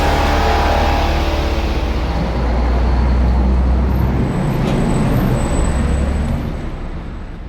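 A motor vehicle's engine running with a steady low rumble, fading out near the end.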